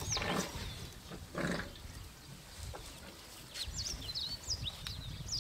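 Small birds chirping in quick whistled notes that slide up and down, busiest at the start and again over the last two seconds, over a low background rumble. Two short rustling noises come in the first two seconds.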